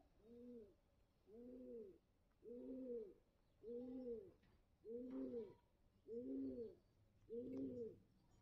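Faint cooing calls of a bird, repeated evenly about once every second and a bit, seven in all, each note rising and falling in pitch.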